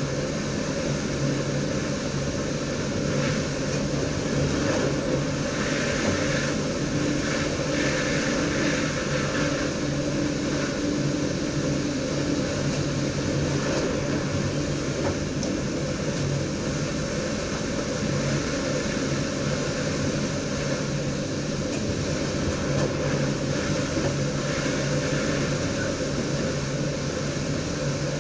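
Steady running noise inside the driver's cab of an NS DDZ double-deck electric train under way: an even rush of rolling and air noise with a low, steady hum.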